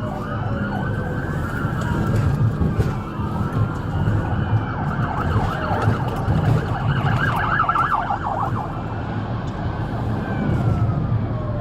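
Police car siren wailing in slow rising and falling sweeps, switching to a fast yelp about seven seconds in. Engine and road rumble sit underneath.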